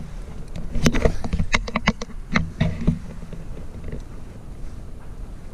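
Clicks and knocks of small photo slides being handled and sorted, irregular and bunched together in the first half, over a low rumble of handling noise.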